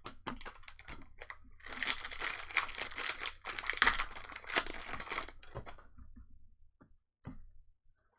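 A foil trading-card pack wrapper being torn open and crinkled, with a dense crackle lasting about three and a half seconds. Light clicks of cards being handled come before and after it.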